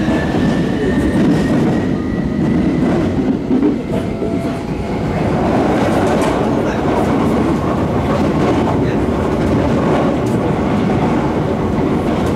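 Tokyo Metro 17000 series train heard from inside the car: a high whine from its Hitachi SiC VVVF inverter and traction motors, rising slightly in pitch under acceleration, fades out about two seconds in. A steady running rumble with wheels clicking over rail joints follows.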